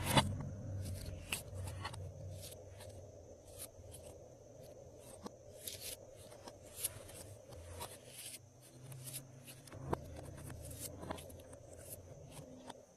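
Glossy slime being kneaded and mixed by hand: irregular sticky clicks and small pops as it is pressed and pulled apart, over a soft squishing rustle.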